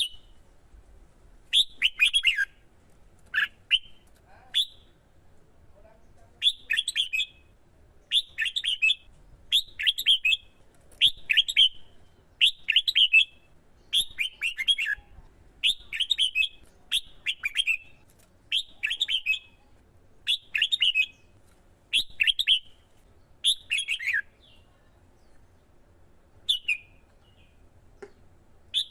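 Red-whiskered bulbul singing short, quick whistled phrases, repeated about every one and a half seconds, then pausing before two more phrases near the end.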